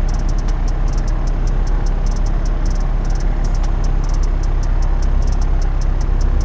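Cessna 172RG Cutlass's piston engine and propeller running steadily, with a fast regular faint high ticking of about five ticks a second over it.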